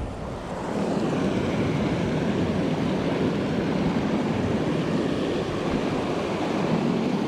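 Steady rushing of creek water, growing louder about a second in and then holding even.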